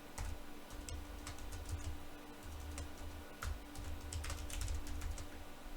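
Computer keyboard keystrokes: an irregular run of key presses typing a password and its confirmation.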